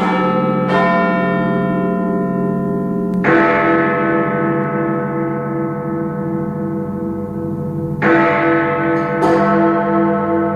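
Big Ben's large clock-tower bells struck four times at uneven intervals. Each stroke rings on with long, overlapping decays and a pulsing low hum.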